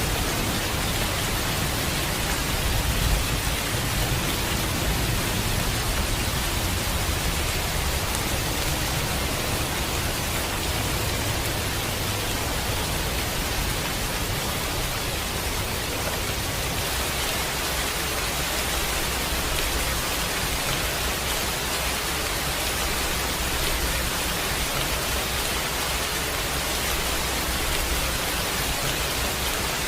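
Steady heavy rain hissing, with a low rumble of thunder through the first half that fades out after about 17 seconds.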